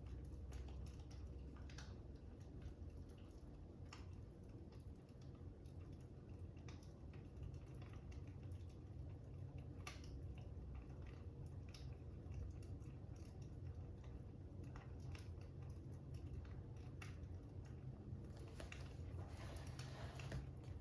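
Wood fire crackling quietly: irregular sharp pops and snaps over a steady low rumble, with a denser run of crackles near the end.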